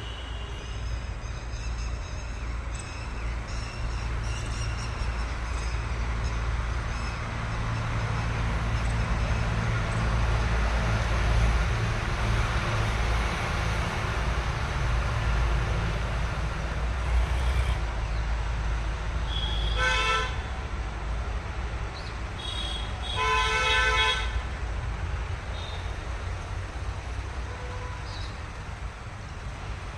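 A motor vehicle's engine running steadily with a low rumble, and a horn honked twice, a short toot and then a longer one, about two-thirds of the way in.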